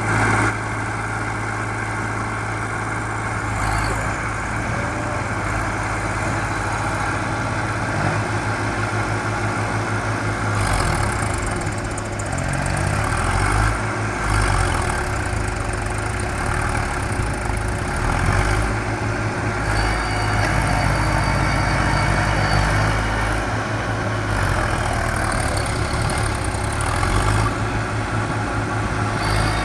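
Tractor engine running steadily, its note shifting a few times as it works under load to pull a tractor out of mud.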